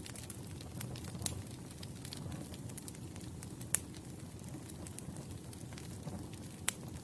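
Wood burning in a campfire: a steady low hiss of flames with scattered crackles and sharp pops, the loudest pop about three and a half seconds in and another near the end.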